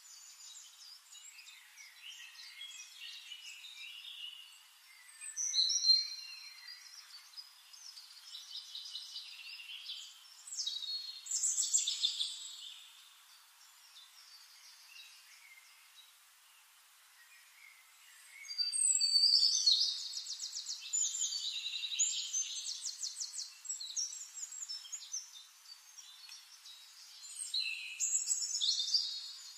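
Songbirds chirping and trilling in several bursts, with rapid high trills about two-thirds of the way through.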